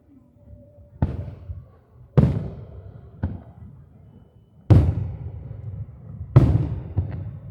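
Aerial fireworks shells bursting: four loud booms, one to two and a half seconds apart, each trailing off in a low rumble, with a couple of smaller cracks in between.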